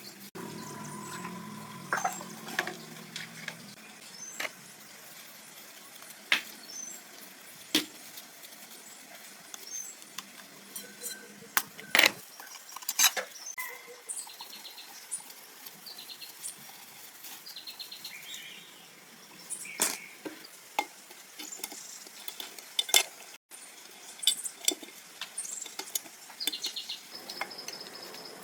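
Irregular sharp clinks, taps and knocks of small hard objects being handled, over a faint steady hiss.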